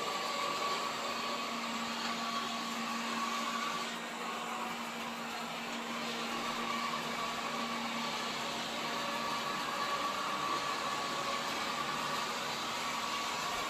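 Samsung robot vacuum cleaner running, a steady whir with a low hum and a higher whine that fades for a few seconds and then comes back.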